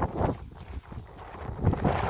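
Wind buffeting the microphone in uneven gusts, strongest at the start and building again near the end.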